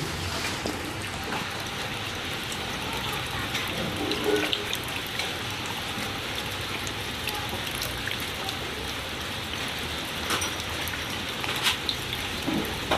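Steady rain falling, an even hiss with a few sharp taps scattered through it, most noticeably in the later seconds.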